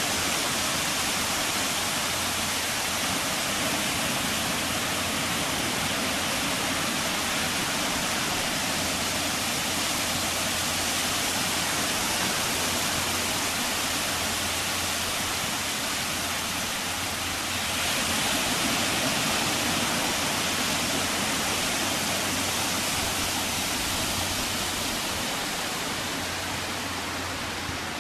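Steady rushing noise, like water and wind streaming past, under a faint low hum. It swells a little about two-thirds of the way through and eases slightly near the end.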